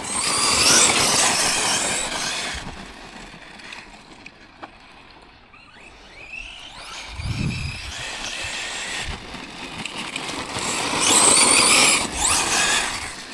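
Tekno MT410 2.0 1/10-scale electric RC monster truck driving over rough ground: a high motor whine with tyre and gravel noise, in two loud bursts of throttle with a quieter stretch between them and a low thump about seven seconds in.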